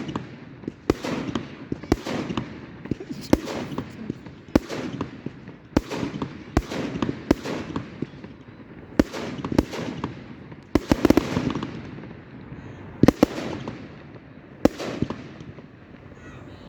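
Fireworks going off: a string of sharp bangs, roughly one every second with short gaps, over a crackling rumble, and a rapid cluster of bangs about eleven seconds in.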